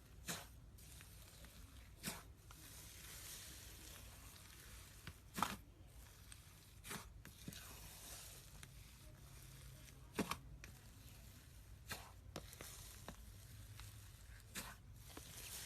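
Slime being squeezed and stretched by hand: a faint sticky crackle throughout, broken by short, sharp pops every second or few.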